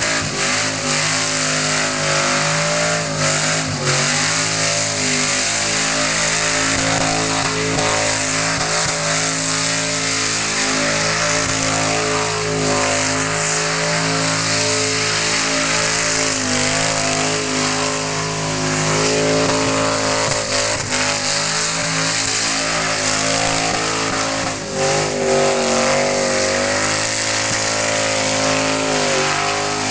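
Ford Falcon XC ute's engine held at high revs through a long burnout, its rear tyres spinning and smoking on the pad. The engine note stays mostly steady, wavering in pitch now and then, with a brief dip about 25 seconds in.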